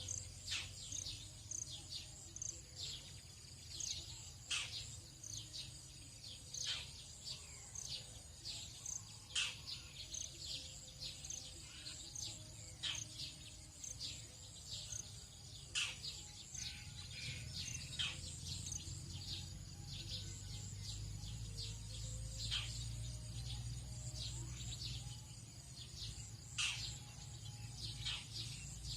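Dawn chorus of many small birds giving short, quick downward-sweeping chirps, over a steady high insect drone. A low rumble underneath grows louder about two-thirds of the way through.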